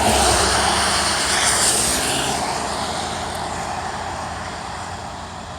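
A passing vehicle's engine and rushing noise, loud at first and fading steadily away.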